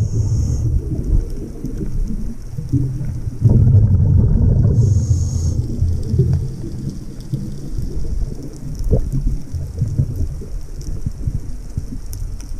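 Underwater sound of a diver breathing on a scuba regulator: a short hiss of inhalation at the start and again about five seconds in, between surges of low rumbling exhaled bubbles.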